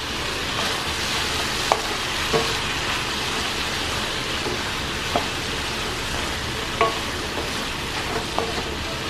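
Mushrooms and meat sizzling in a hot wok as they are stir-fried, with a wooden spatula scraping through and knocking against the pan several times.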